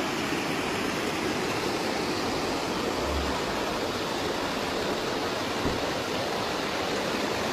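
Steady rushing of fast-flowing floodwater, an even, unbroken roar.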